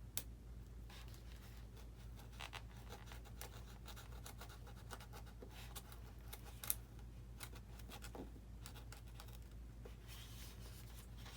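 Blade scratching and slicing through a foam RC airplane wing in repeated short strokes, cutting a channel for wiring, with one sharp click about two-thirds of the way through.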